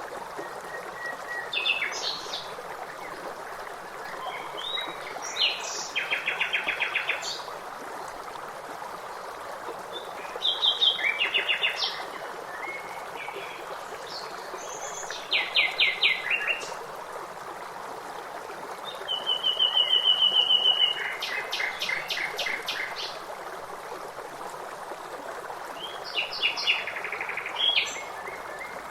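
Songbirds singing short phrases of high whistles and fast trills, one phrase every four or five seconds, over the steady rush of flowing stream water.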